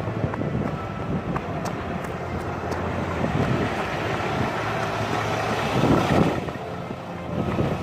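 Outdoor street noise heard on the run: passing traffic and wind on the microphone, swelling about six seconds in.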